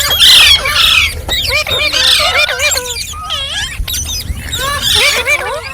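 Green parrot chattering: a rapid, continuous stream of short whistled chirps gliding up and down in pitch, broken by harsh screeches a few times.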